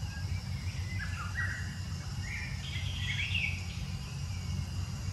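Short bird chirps from about a second in to past the middle, over a steady low rumble of outdoor background noise.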